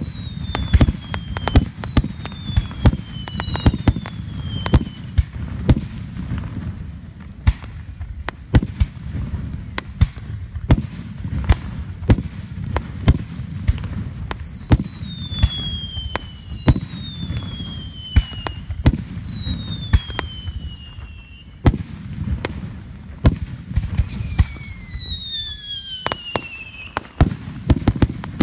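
Aerial fireworks bursting in quick succession: many sharp bangs at irregular spacing over a continuous low rumble. Several falling whistles sound among the bursts near the start, in the middle and near the end.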